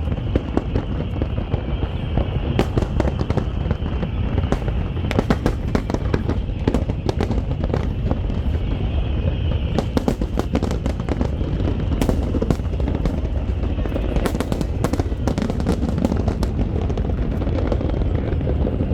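Fireworks finale: a dense, unbroken barrage of shell bursts and crackles over a continuous low rumble.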